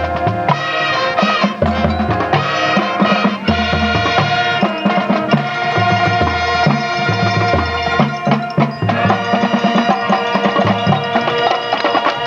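High school marching band playing: brass holding sustained chords over a steady drumline beat.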